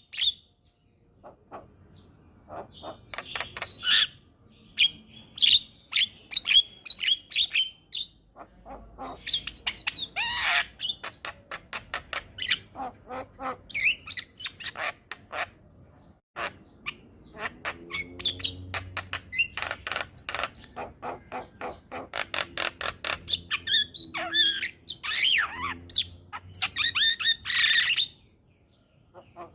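Javan myna (jalak kebo) singing a fast, varied chatter of clicking notes, squawks and short whistles, broken by brief pauses.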